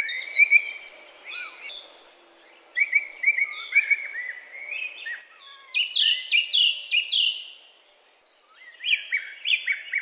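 Songbirds singing: several phrases of quick, high repeated chirps, each lasting a second or two, with short pauses between them.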